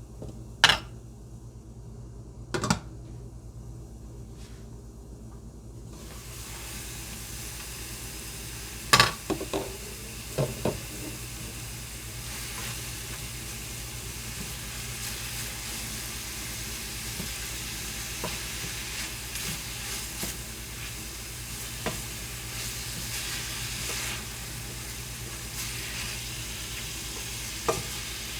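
Ground beef frying in a pan, sizzling steadily from about six seconds in, with a few knocks of a utensil against the pan.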